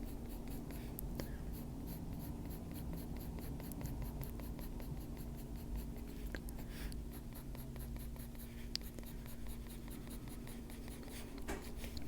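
Faber-Castell Polychromos coloured pencil (dark sepia) scratching on paper in quick, even shading strokes, soft and continuous.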